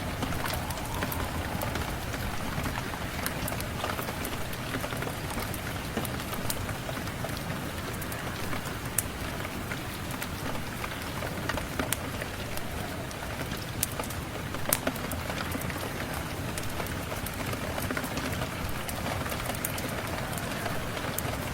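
Steady rain falling, with scattered sharp crackles and pops from a wood fire burning in a fireplace.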